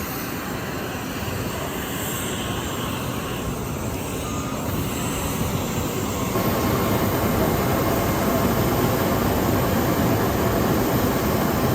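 Dash 8 turboprop engines running: a steady rushing noise that grows gradually louder.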